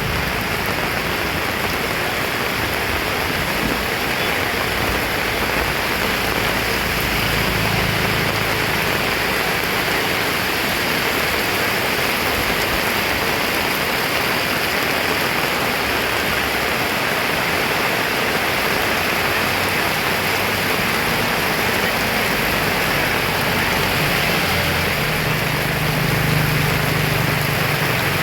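Heavy rain pouring down in a dense, steady hiss, with a low hum coming in near the end.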